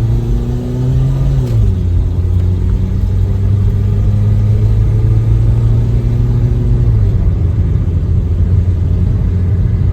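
Car engine and road noise while driving, with a heavy low rumble. The engine note rises slightly, drops about a second and a half in, holds steady, and drops again about seven seconds in.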